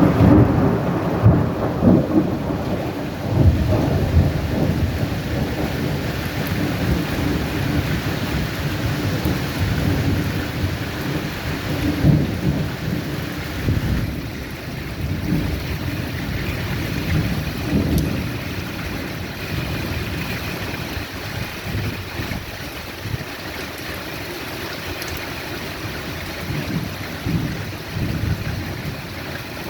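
Steady rain with irregular low rumbles of rolling thunder, heaviest in the first few seconds and easing off after that.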